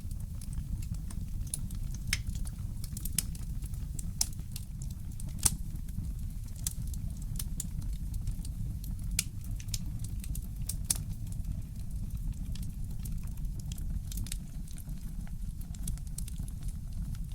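Wood fire crackling in a fireplace: irregular sharp pops and clicks, one louder snap about five and a half seconds in, over a steady low rumble.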